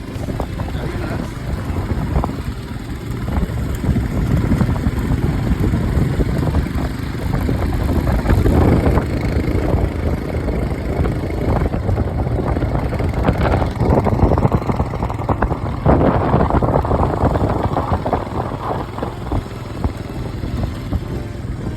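Motorcycle running on the move, a steady low rumble mixed with gusty wind noise on the microphone.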